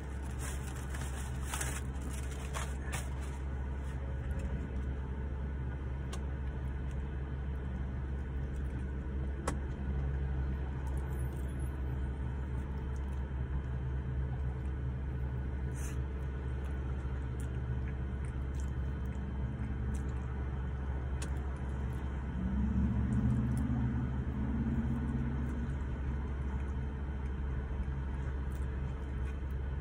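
Steady low rumble of a car idling, heard from inside the cabin, with a few faint clicks and a brief low hum about three-quarters of the way through.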